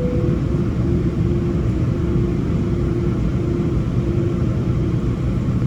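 Steady low rumble of a Boeing 777-300 jet cabin with the engines running before takeoff, heard from a passenger seat, with a faint wavering hum running through it.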